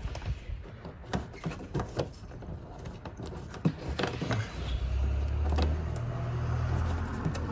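Scattered clicks and knocks of a plastic fender liner being worked loose by hand, with a low steady hum coming in about five seconds in.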